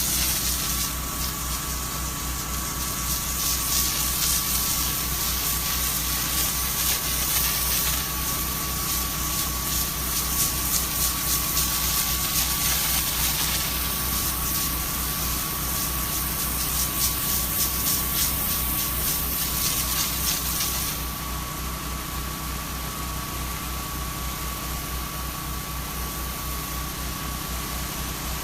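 Small engine-driven spray pump running steadily while the hiss of sodium hypochlorite roof treatment being sprayed from the nozzle comes and goes. The spray hiss eases off about three-quarters of the way through while the engine keeps running.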